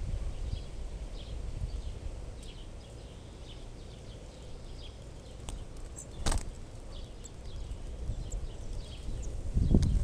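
Faint, short, high bird chirps scattered throughout, over a low rumbling noise. A single brief sharp crack comes about six seconds in, and the low rumbling swells loudly near the end.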